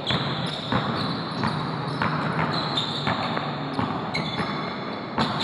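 A basketball bouncing on a gym floor during play, a series of irregular knocks roughly every half second to a second over a steady hall din.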